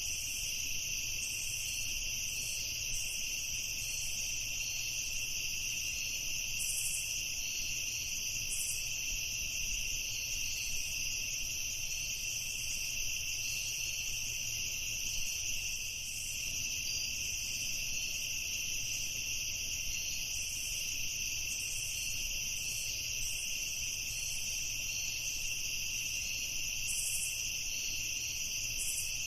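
Night insect chorus: a steady, unbroken high-pitched trilling at two pitches, with a few faint short chirps above it.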